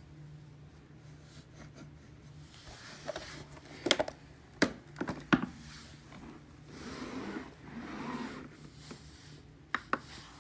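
Hands handling a robot vacuum's plastic body: a few sharp clicks and knocks and some rubbing and scraping of plastic parts.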